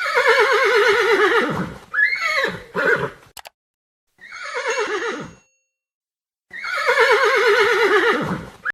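Horse whinnying repeatedly: several neighs, the longest about two seconds, each with a rapid quaver that falls in pitch.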